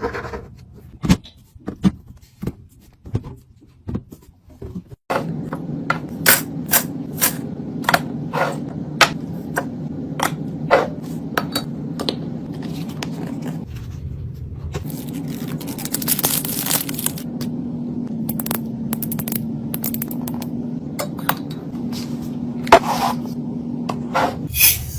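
Containers and groceries being handled and set down while a fridge is restocked: a string of sharp clicks, knocks and scrapes. A steady low hum runs underneath from about five seconds in.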